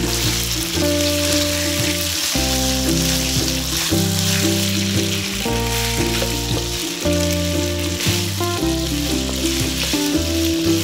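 Diced raw chicken sizzling in hot oil in a wok as it is stirred with a wooden spatula, a steady hiss throughout, under background music with a bass line.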